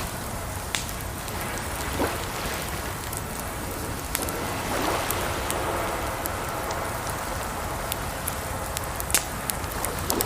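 Campfire crackling, with scattered sharp pops over a steady rush of water. The loudest pop comes near the end.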